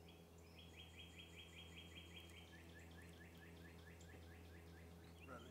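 A faint bird song: a long series of short repeated notes, about five a second, that drop lower in pitch partway through, over a steady low hum.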